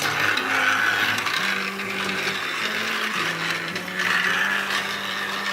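Battery-powered toy train's small electric motor and plastic gears running steadily as the train travels along its track.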